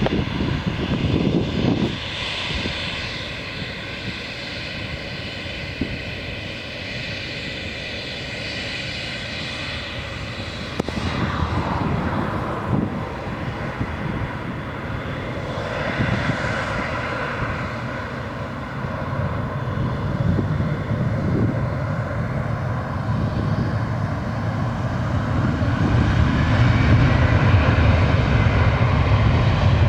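Embraer 190's twin turbofan engines at takeoff power, a jet roar with a high whine. The roar grows steadily louder through the second half, and a whining tone rises in pitch near the end.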